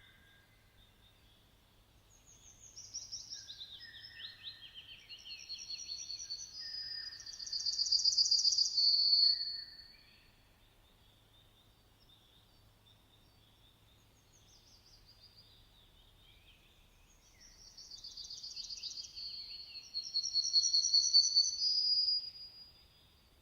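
A songbird singing two long phrases several seconds apart, each a run of rapid descending trills that builds into louder, high, fast trills before stopping abruptly. Fainter bird calls continue in the pauses.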